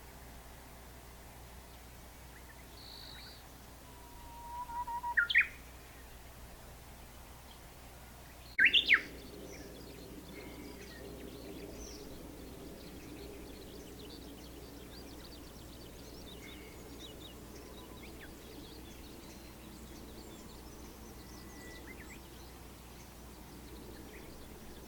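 Japanese bush warbler singing: a held low whistle about four seconds in that breaks into a quick, loud rising phrase, the bird's "hoo-hokekyo" song, then another loud short phrase about nine seconds in. Fainter bird chirps come and go throughout.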